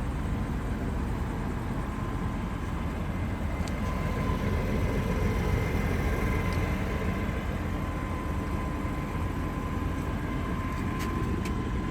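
Steady low-pitched rumbling noise with no clear events, joined about four seconds in by a faint steady high tone.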